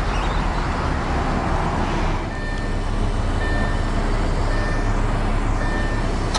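Lamborghini Gallardo Superleggera's 5.2-litre V10 idling steadily. From about two seconds in, a short electronic warning chime beeps roughly once a second over it.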